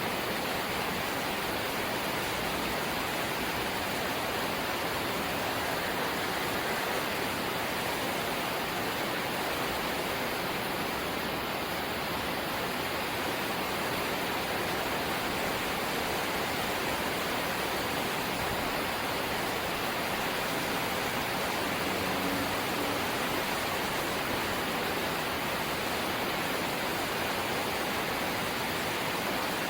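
Rain falling steadily on a corrugated zinc house roof, a dense even hiss that does not let up.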